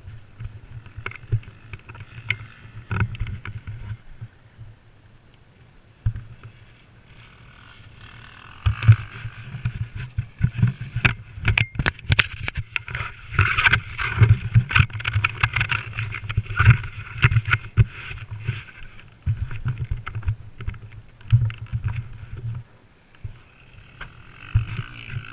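Motocross bike engine running unevenly, with heavy wind buffeting on the microphone; it grows louder about a third of the way in.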